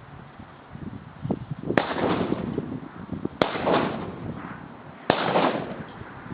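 Shotgun fired three times, about a second and a half apart, each shot a sharp crack followed by a trailing echo.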